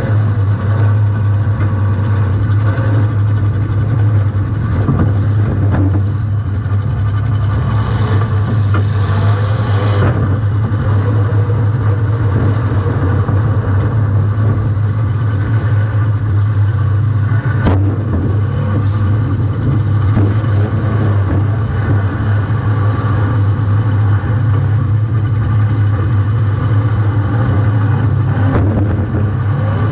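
Compact demolition derby car's engine running hard and revving, heard from a camera mounted on the car. There is a sharp bang about 18 seconds in.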